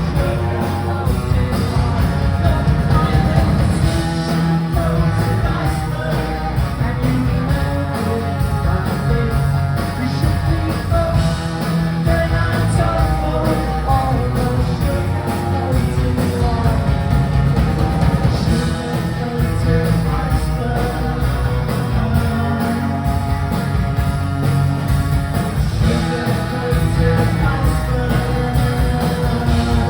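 Live rock band playing a song through the PA, with guitars, drums and singing, heard from the audience.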